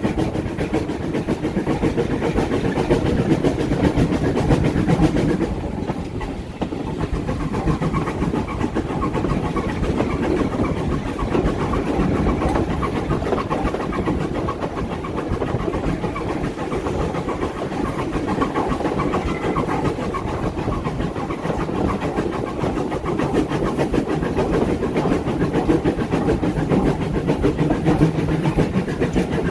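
Passenger train running steadily along the line, a continuous rumble; it eases briefly about six seconds in.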